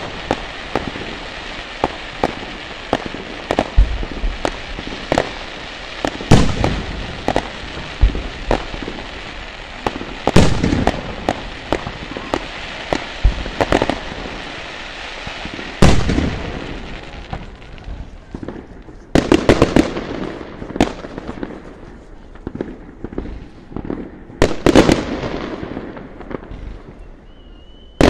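Fireworks display: aerial shells bursting with sharp bangs every second or two over a steady crackle from glittering star effects. The crackle thins about two-thirds of the way in, and quick clusters of bangs follow.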